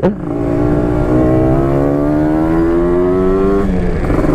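Yamaha RX-King's single-cylinder two-stroke engine pulling under acceleration, its note rising steadily in pitch. Near the end it drops briefly, as at a gear change, then picks up again.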